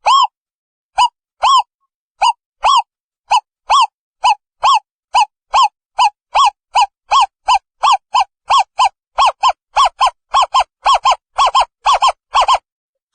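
Owl calling: a long series of short hoots, each rising and falling slightly in pitch, starting at about two a second and speeding up steadily to about four a second before stopping shortly before the end.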